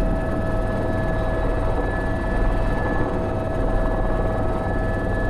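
Airbus H125 helicopter in flight, heard from the cockpit: a steady turbine and gearbox whine held on a few constant tones, over the low beat of the main rotor.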